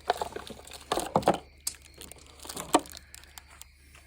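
Small parts and packaging being handled: irregular crinkling and clicking, with sharper clicks about a second in and again just before three seconds.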